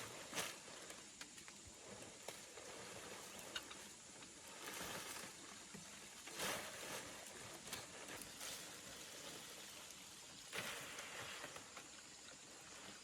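Intermittent rustling swishes, five or so, and a few light clicks over a faint outdoor background.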